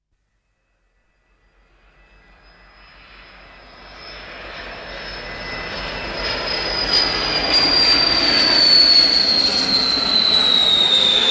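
Jet aircraft engine fading in from silence and growing steadily louder: a rushing roar under a high whine that slowly falls in pitch.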